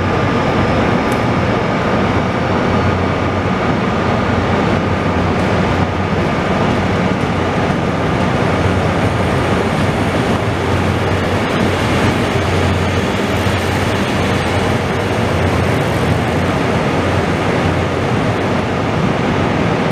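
Passenger coaches rolling past a station platform, a steady, even rumble of train running noise, with a faint steady whine over it through roughly the first half.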